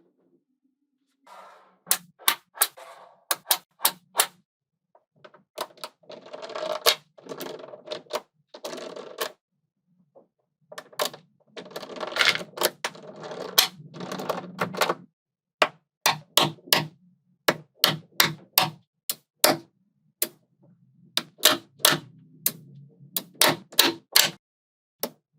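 Small magnetic balls clicking sharply as they snap onto one another, singly and in quick runs. Twice there are longer stretches of rattling as a cluster of balls clatters together.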